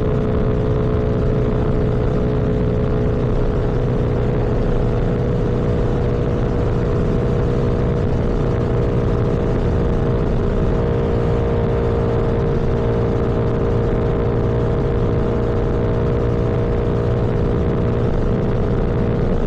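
Motorcycle engine running at a steady cruising speed, a constant even hum with road and wind noise.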